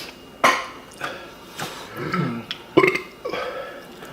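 A man burping, forcing up burps on a full stomach, several short ones in a row.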